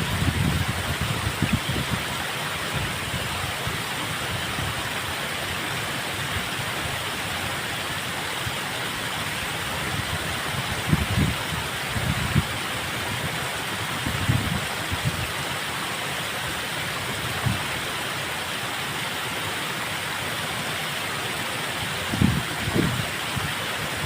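Flowing water rushing steadily, an even hiss with no rhythm. A few brief low rumbles break through now and then.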